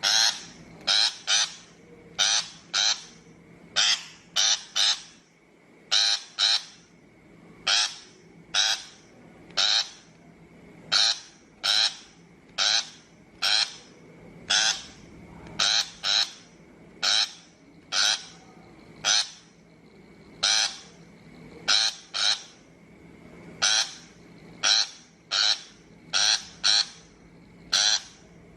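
Shrike giving harsh, grating calls in quick pairs and triplets, repeated about every one to two seconds. This is the recorded call used on trap speakers to lure shrikes.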